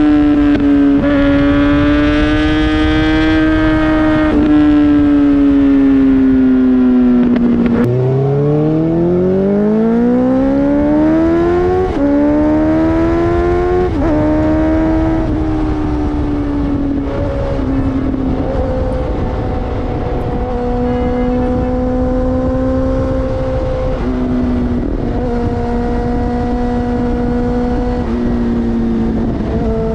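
Inline-four sport bike engine at high revs. The pitch drops around 8 s, then climbs steadily as it accelerates, with quick gear changes about 12 and 14 seconds in. After that it holds fairly steady revs with small dips.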